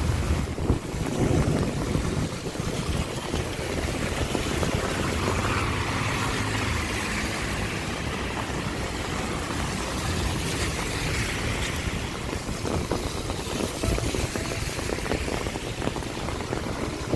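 Steady rain falling, with a low rumble and swells of hiss about six and eleven seconds in.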